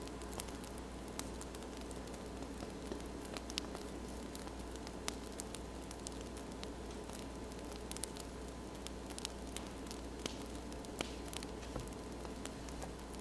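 Wood fire crackling: a steady soft hiss with irregular small pops and snaps, a few sharper than the rest.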